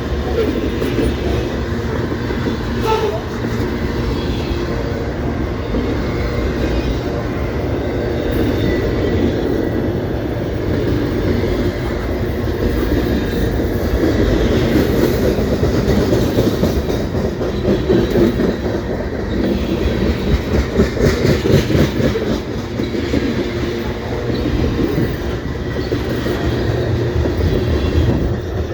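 A CP Rail train rolling past, a long steady rumble of the cars with the wheels clacking over rail joints, the clacking most distinct in the second half.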